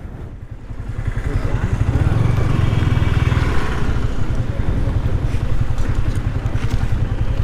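Yamaha R15 V3's single-cylinder engine running at low speed. It is quiet for the first moment, then picks up about a second in and runs steadily.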